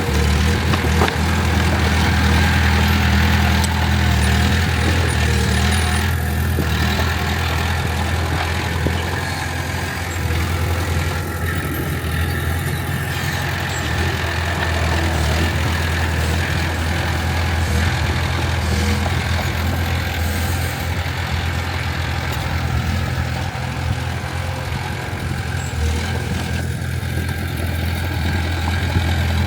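Heavy earthmoving machine's diesel engine running steadily with a deep, even drone, dipping slightly a few times.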